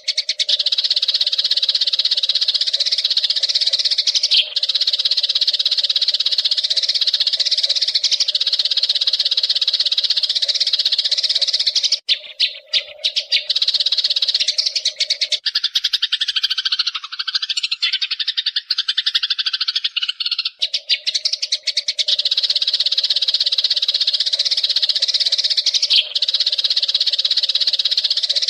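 Eurasian tree sparrows (burung gereja) chattering in a rapid, continuous stream of high chirps, with a steady low hum beneath. After a brief break about halfway through, a few seconds of lower, wavering calls replace the chatter, and then the chatter resumes.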